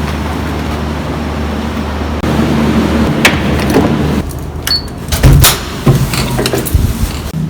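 A steady low hum of a vehicle or ventilation; about four seconds in it drops away and a run of knocks and clicks follows, with one loud heavy thud of a door a little after five seconds.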